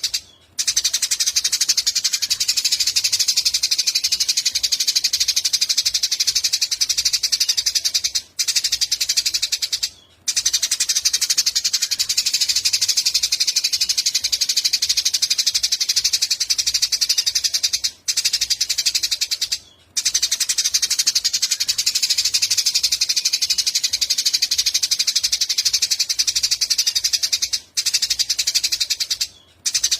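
A small songbird's rapid, unbroken high-pitched chattering trill from a looped recording, cut by short breaks several times.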